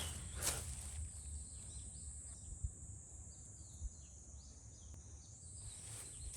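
Outdoor ambience: a steady high-pitched insect drone, with a run of short, falling bird chirps through the middle, and a sharp knock about half a second in.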